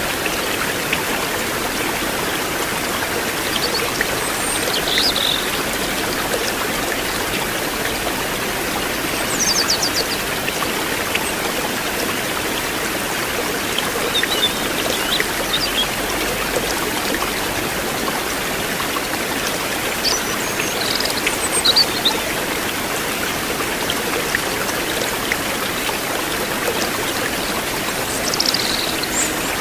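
River water flowing steadily over stones, a constant rushing babble. A few short, high chirps sound now and then over it.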